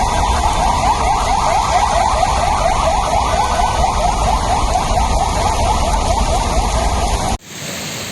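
Electronic siren giving fast, repeated rising sweeps, about three or four a second, over a heavy low rumble. It cuts off abruptly near the end, and a steady hiss of rain follows.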